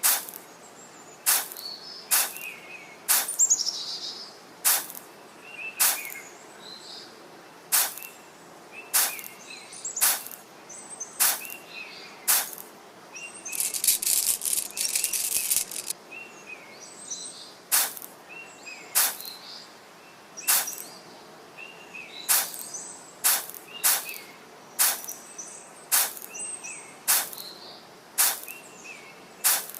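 Sharp knocks, about one a second, pausing for a two-second burst of hiss about halfway through, with small birds chirping throughout.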